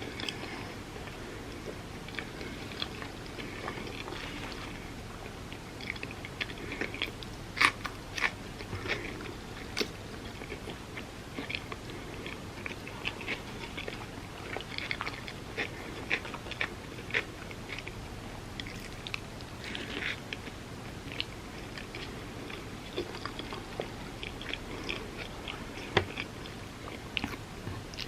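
Close-miked eating: biting into and chewing crunchy sourdough toast, a steady string of short crisp crunches and mouth clicks, with a couple of sharper cracking bites, one about a quarter of the way in and one near the end.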